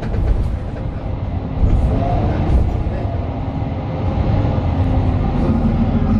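Interior sound of a Mercedes-Benz Citaro 2 city bus under way: the OM 936 six-cylinder diesel and ZF Ecolife automatic gearbox give a continuous low rumble over road noise. The engine tone grows stronger near the end as the bus pulls harder.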